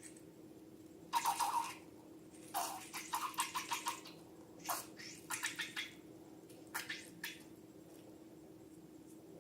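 Wet squishing of slime and balloon contents squeezed by hand, in several short bursts of quick squelches, over a faint steady hum.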